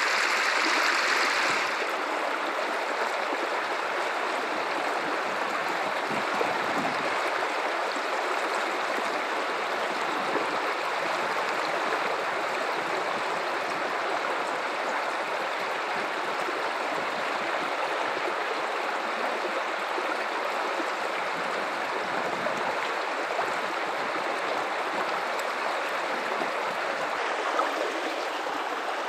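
Guadalupe River water flowing, a steady, even rushing and burbling, a little louder and brighter for the first two seconds before settling.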